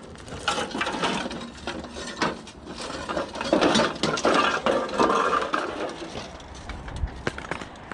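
Scrap metal being handled, clanking and clattering with a run of knocks and some ringing metal.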